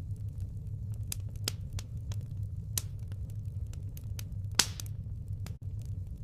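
Firewood burning, with a steady low hum under scattered sharp crackles and pops, the loudest pop about four and a half seconds in.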